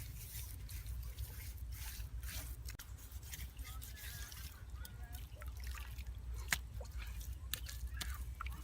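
Water dripping and trickling, with scattered sharp clicks and small splashes over a steady low rumble; the sharpest click comes about six and a half seconds in.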